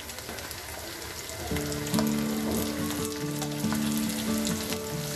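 Chopped green bell pepper sizzling as it fries in hot oil with onions and garlic in a nonstick pan, with a wooden spatula stirring and clicking against the pan. Background music with held notes comes in about a second and a half in.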